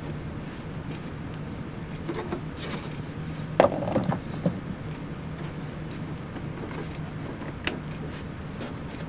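Handling and work noises: some scraping, then a few sharp clicks and knocks, the loudest about three and a half seconds in and another near the end, over a steady low hum.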